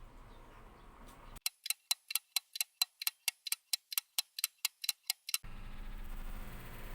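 A hawfinch giving a rapid run of sharp, high 'tik' calls, about four or five a second for some four seconds. It is followed by a steady background hiss.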